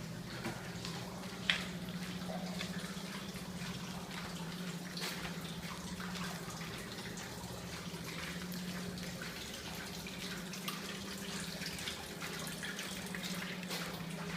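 Water trickling and splashing in many small drips and patters, over a steady low hum.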